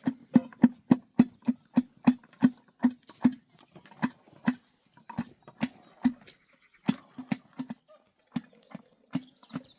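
A rapid series of sharp, hollow knocks, each with a short low ring, about three a second at first and then more unevenly spaced with a few pauses.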